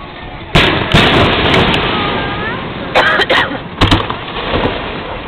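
Fireworks bursting: a loud bang about half a second in and another a second in, each trailing a rolling rumble, then a quick cluster of sharp bangs around three to four seconds in.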